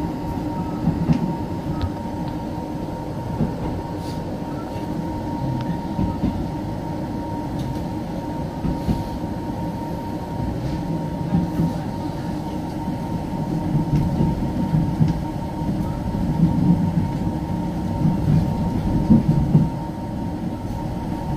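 Passenger train rolling along the track, heard from inside the carriage: a steady low rumble of wheels on rails under a constant hum, with irregular louder jolts and knocks in the second half.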